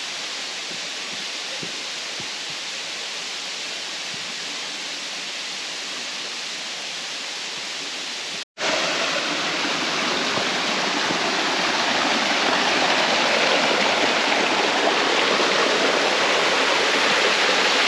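Steady rush of falling water from a tropical waterfall. It drops out for an instant about eight and a half seconds in, then comes back louder and grows slightly louder still toward the end.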